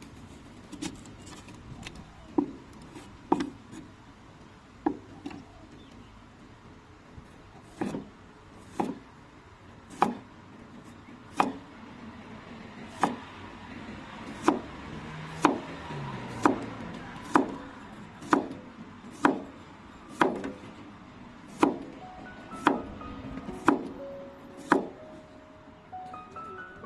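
Knife chopping food on a wooden cutting board, single sharp strokes about one a second. Soft background music comes in near the end.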